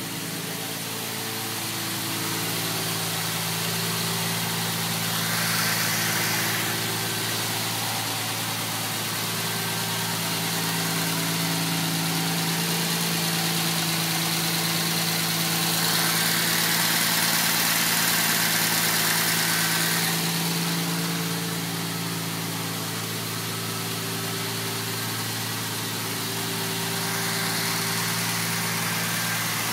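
1982 Jaguar XJS's 5.3-litre V12 idling steadily, running in the cold after two months of sitting. A hiss swells and fades twice over the steady engine note.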